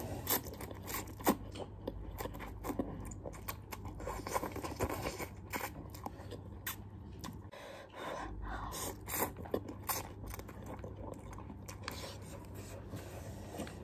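Someone eating instant hot-and-sour glass noodles from a cup with a fork: irregular clicks and scrapes of the fork in the cup, mixed with chewing.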